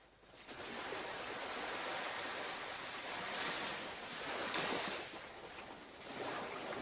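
Surf washing onto a beach: a steady rush of breaking waves that swells twice in the middle, eases, then builds again near the end.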